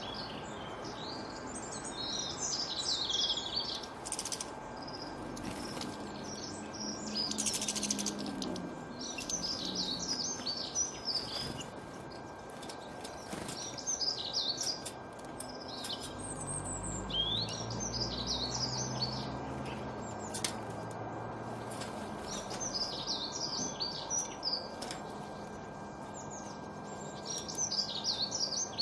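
Songbirds singing: short bursts of quick, high warbling notes, repeated every few seconds. A faint steady tone runs underneath, and a low rumble passes through about the middle.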